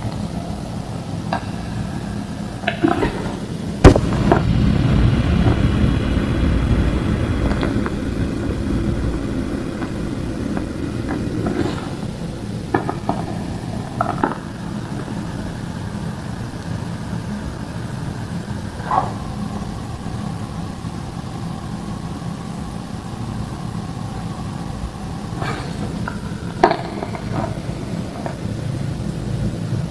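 Thick homemade gym chalk slabs being snapped and crumbled by hand. A loud sharp snap about four seconds in is followed by a few seconds of crunchy crumbling, then scattered cracks and crunches. A steady low hum runs underneath.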